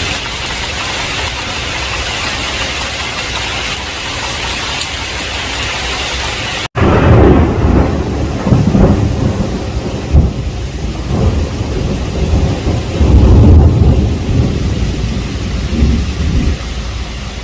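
Heavy rain pouring steadily, then, after an abrupt cut about a third of the way in, a long low roll of thunder with several loud peaks over the rain, easing off near the end.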